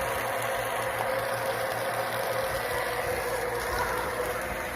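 Bolzano 1 hp shallow well pump running steadily with water rushing through it, an even hiss with a constant hum.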